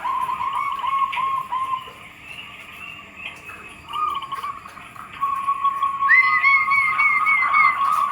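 Zebra doves (perkutut) cooing: runs of short, quickly repeated notes, one run after another. In the last two seconds a second, higher-pitched run overlaps a steady lower one.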